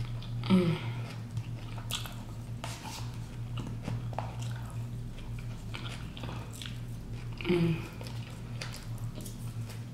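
Close-up chewing of a mouthful of food, with light clicks of a plastic fork picking at food on a plate over a steady low electrical hum. A short hum-like voice sound comes about half a second in and again near the end.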